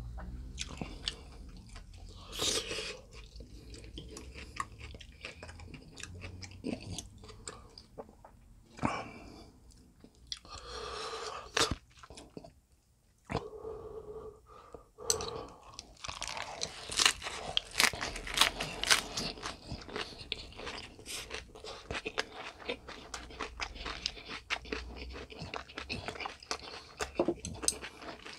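Close-miked chewing of a wrap of raw napa cabbage, perilla leaf and spicy stir-fried pork: crisp cabbage crunching between the teeth with wet mouth sounds. The crunches come thick and fast in the second half.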